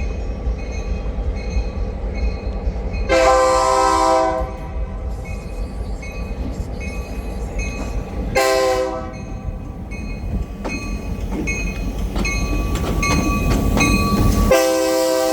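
Train horn sounding over the low rumble of the moving train: a long blast, a short blast about five seconds later, then another long blast starting near the end.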